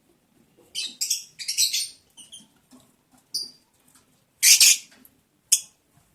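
Lovebirds giving a string of short, harsh, scratchy chirps and squeaks, about six in all, the loudest and longest about four and a half seconds in.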